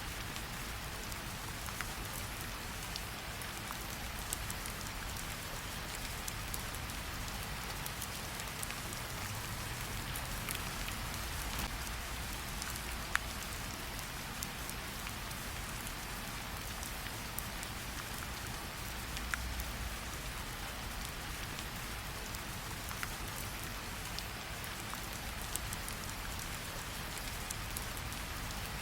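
Steady rain mixed with a campfire: an even hiss with a low rumble underneath and scattered sharp clicks, one louder about thirteen seconds in.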